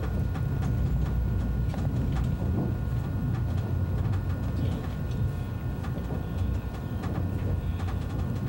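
ICE 1 high-speed train running: a steady low rumble with faint scattered ticks.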